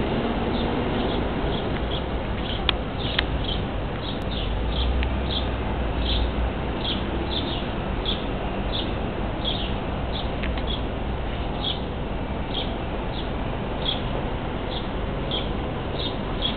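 A small bird chirping over and over, about twice a second, over a steady low rumble of wind and background noise.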